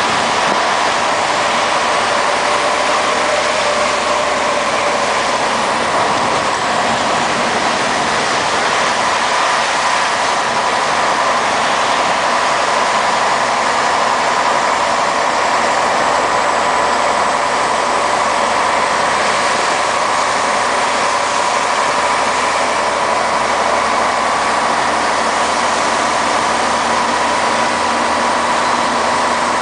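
Scania 110 Super truck's six-cylinder diesel engine running steadily.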